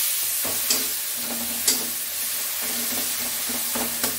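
Onion-tomato masala sizzling as it fries in a kadhai, stirred with a metal spatula that scrapes the pan sharply three times.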